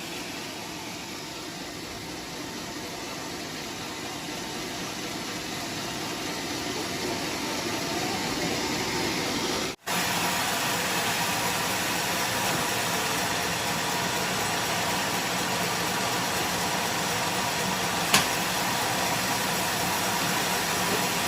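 Steady noise of running machinery, building slowly, with a momentary dropout about ten seconds in and a single sharp click near the end.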